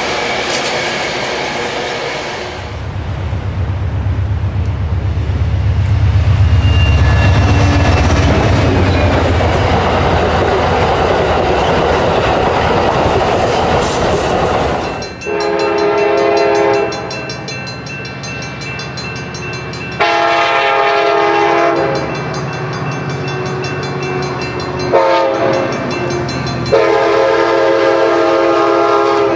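A train passing with a heavy low rumble, then a multi-tone train horn sounding in about four blasts, each one to three seconds long, through the second half.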